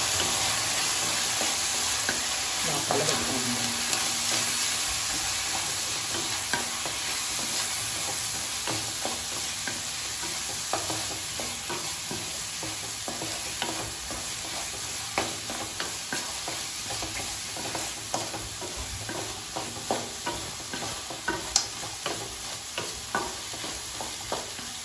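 Chicken pieces sizzling in oil in a nonstick kadai while a wooden spatula stirs the freshly added spice powders through them, scraping and tapping on the pan. The sizzle is strongest at first and eases off, while the spatula taps come more often toward the end.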